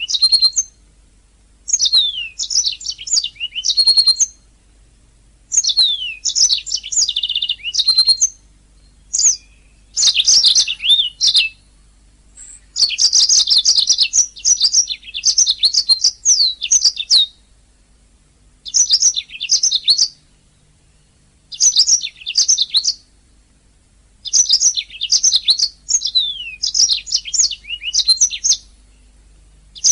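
Domestic canary singing in phrases of rapid high trills and quick sweeping whistled notes, each phrase lasting one to four seconds, with short pauses between.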